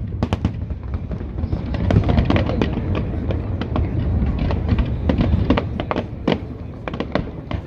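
Aerial fireworks display: a rapid run of sharp bangs and crackles over a continuous low rumble of bursts.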